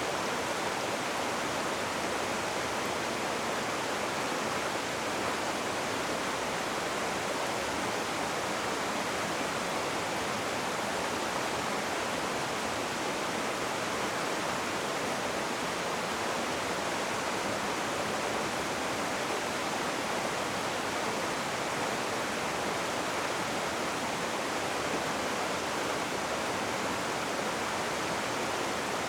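Rushing river water: a steady, even rush with no distinct splashes or changes.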